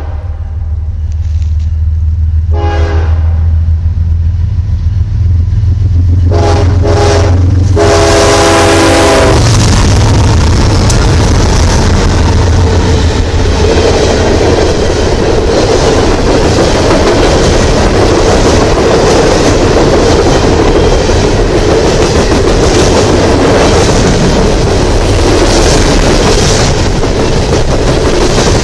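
Nathan K5HL five-chime air horn on a Norfolk Southern ES40DC diesel locomotive sounding several blasts, the last one long, over the low rumble of the approaching locomotives. From about nine seconds in, the horn stops and a string of coal hopper cars rolls past with a loud, steady rattle and clickety-clack of wheels on the rails.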